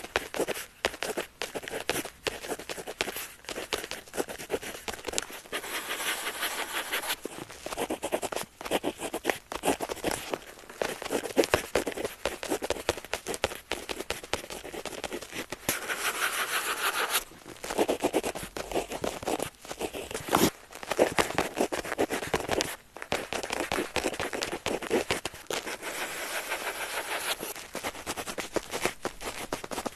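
Pen nib scratching across paper in quick, continuous writing strokes, with brief pauses between bursts of strokes.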